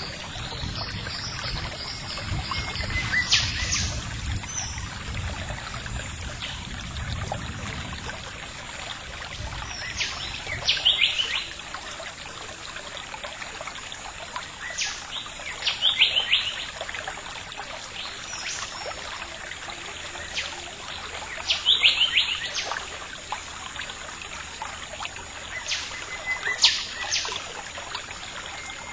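Wild birds calling: short bursts of high chirps recur every five or six seconds over a steady background hiss. A low rumble underlies the first several seconds.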